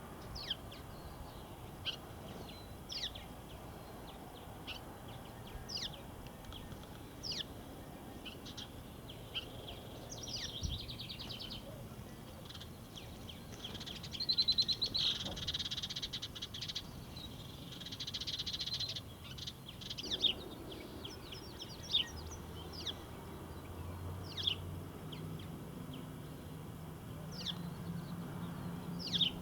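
Small songbirds chirping: many short, separate high chirps throughout, with two buzzy trills of about two seconds each in the middle.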